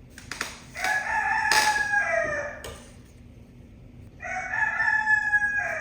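African grey parrot giving two long, loud calls a couple of seconds apart. Each holds a steady pitch and drops at the end.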